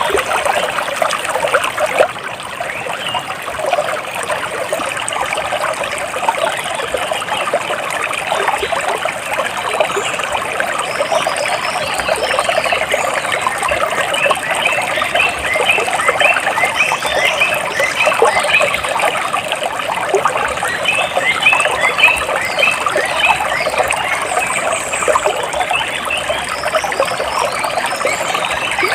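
Running water trickling and splashing steadily. Through the second half, a fast series of short repeated chirps from a small animal sounds over it.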